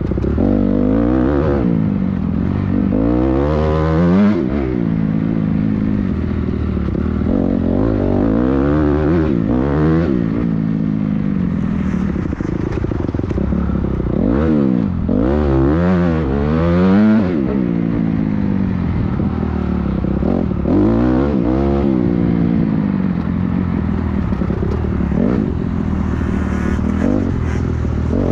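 Motocross bike engine revving hard, its pitch climbing and dropping again and again as the rider accelerates, shifts and backs off.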